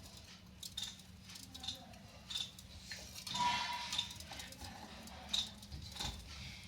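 Pet budgerigars chirping in short calls, with a louder burst of chattering about three and a half seconds in.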